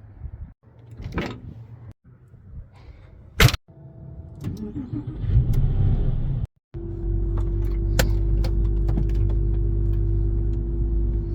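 Yamaha V-Star 650's air-cooled V-twin engine, heard in short edited clips, then running steadily at idle from about two-thirds of the way in.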